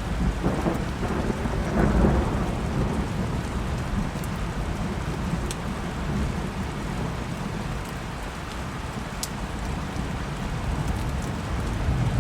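Steady rain with a low rumble of thunder that swells over the first couple of seconds, loudest about two seconds in, then rolls on under the rain.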